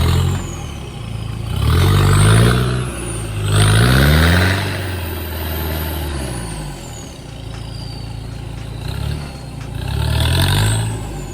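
Off-road vehicle engine revving hard in three surges, its pitch rising each time, with a faint high whine rising and falling alongside.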